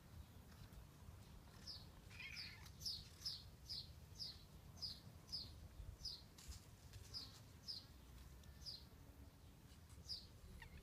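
A bird chirping over and over: short, high, falling chirps at about two a second, starting a second or two in.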